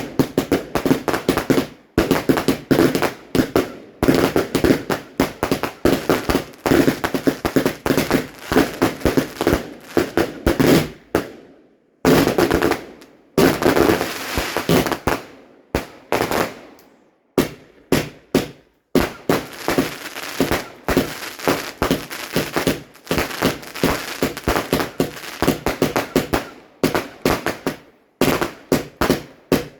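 Fireworks going off in rapid, dense volleys of bangs and crackles. The volleys break off briefly a few times, longest about twelve seconds in.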